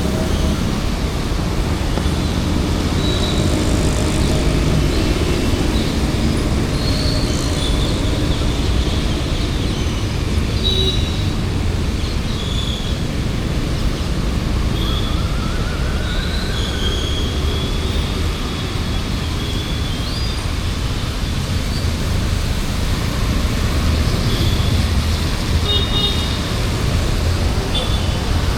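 City street traffic: a steady rumble of passing vehicles, with short high-pitched horn toots scattered through.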